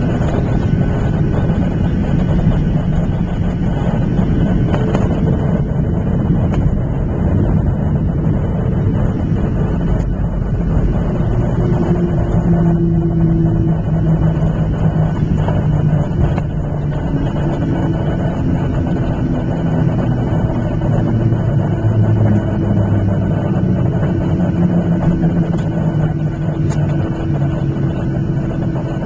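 Boeing 737-700 cabin noise heard from a window seat: the CFM56 jet engines and airflow give a loud, steady rumble, with the engine tones shifting in pitch several times.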